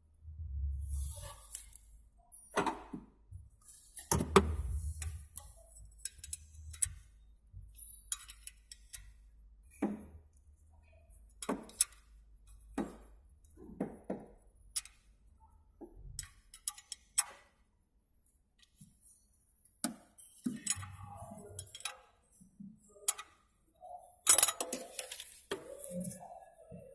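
Irregular metallic clicks, taps and clunks of hands and tools working on a car's battery earth wiring.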